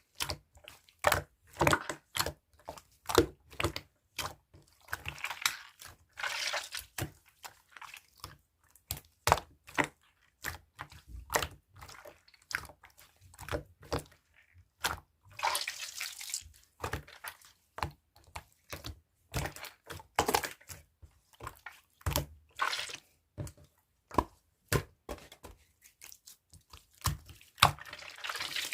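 Blue slime being squished and pressed by hand: a steady run of wet clicks and small pops, several a second, with a few longer sticky, squelching stretches.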